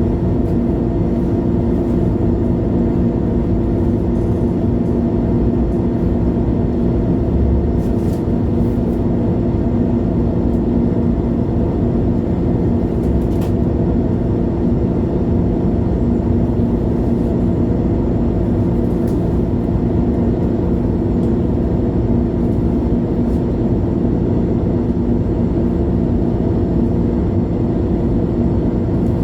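Cabin sound of a 2011 MAN A23 Lion's City G articulated city bus driving along at a steady pace: an even diesel engine and drivetrain drone that holds one pitch throughout, with a few faint rattles from the bodywork.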